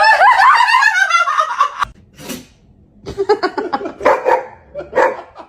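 A dog barking in quick runs of short calls: a rapid string over the first two seconds, a short pause, then more barks.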